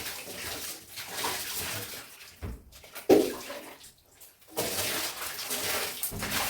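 Water splashing and sloshing in irregular spurts, with a sharp knock about three seconds in.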